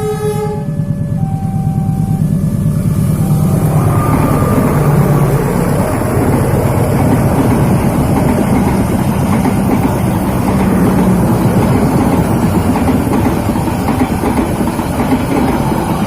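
A train horn cuts off about half a second in, and then a train passes close by with a loud, steady rumble.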